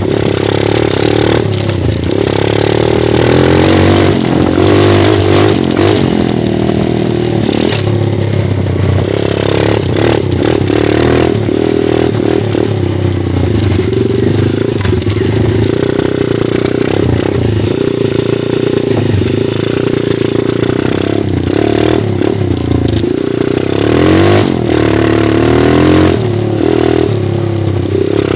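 Dirt bike engine running while being ridden, its pitch rising and falling as the throttle is opened and closed, with scattered short knocks and rattles.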